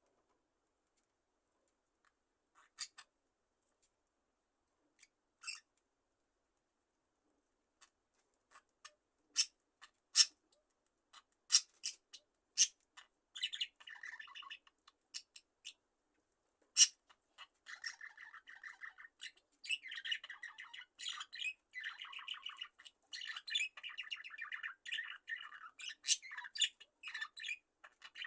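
A flock of budgerigars chirping: scattered single chirps and clicks at first, turning about halfway through into continuous warbling chatter from several birds.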